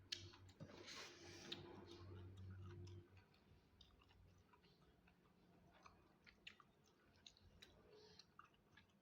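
Soft eating sounds, chewing with scattered small clicks, under a low steady hum that stops about three seconds in.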